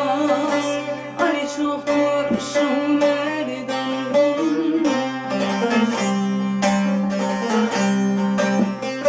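Saz (bağlama) playing an instrumental passage: quick plucked melody notes over steady sustained low tones.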